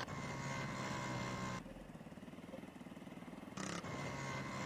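Honda CG 160 Titan's single-cylinder engine running faintly and steadily, dropping quieter for about two seconds in the middle.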